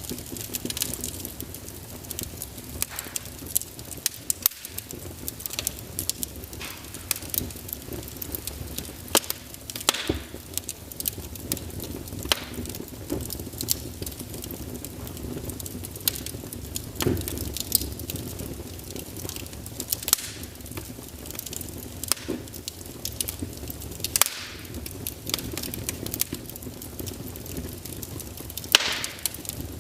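Wood fire burning in a fireplace: a low steady rumble of flames with irregular crackles and pops from the burning logs, a few of them sharper and louder.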